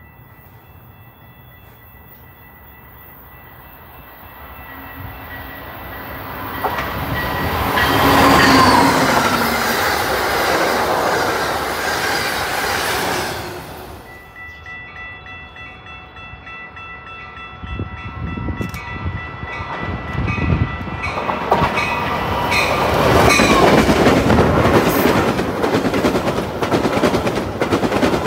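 Train passing at speed, wheels clattering over the rails. It builds from about five seconds in to a loud passage, drops off suddenly about halfway, then a second train passage builds up again and is loud near the end.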